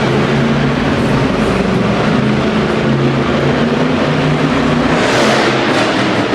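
Monster truck engine running loudly and steadily, with a broad surge of noise about five seconds in.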